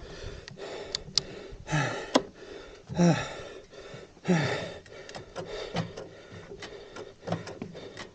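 A man breathing hard, with a short voiced exhale falling in pitch about every second, and scattered clicks and rubbing.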